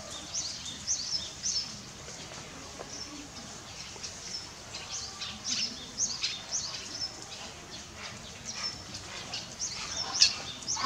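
Small birds chirping: many short, high chirps come thick and fast throughout, with one louder chirp near the end.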